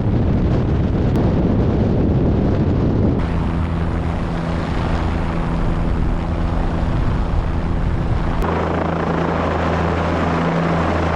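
Helicopter running in flight, a loud steady rotor and engine drone. The sound changes abruptly about three seconds in, to a steadier hum with several held low tones, and shifts again past the middle.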